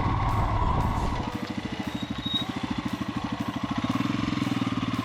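Royal Enfield Himalayan single-cylinder motorcycle engine pulling up. It runs under load for about a second, then settles into an even, rapid idle beat.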